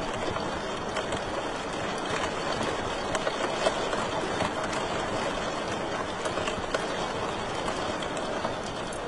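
Wood fire crackling in a fireplace: a steady hiss with many small snaps and pops at irregular intervals, a few of them louder near the middle.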